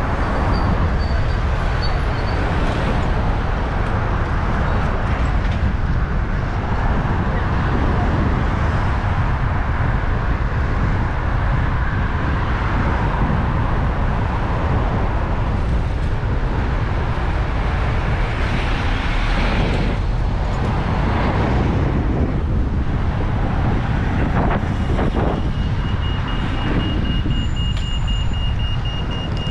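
Wind rushing and buffeting over a bicycle-mounted GoPro's microphone while riding in city traffic, with the steady noise of road traffic underneath. A thin, steady high tone comes in near the end.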